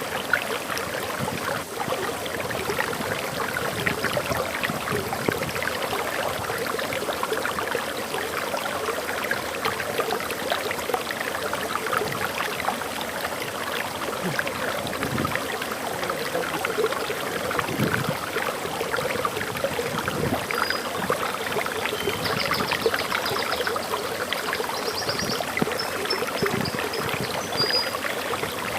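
Forest waterfall pouring and splashing steadily. A few short, high bird chirps come in faintly over it in the second half.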